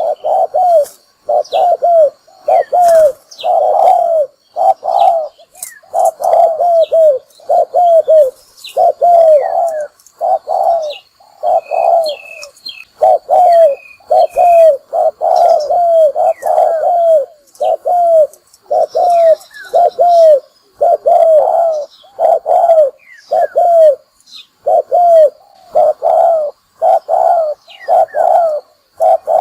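A spotted dove cooing over and over: short, low coos repeated in quick runs, about one or two a second, the calling of a decoy dove used to lure wild doves into a trap. Small birds chirp faintly in the background.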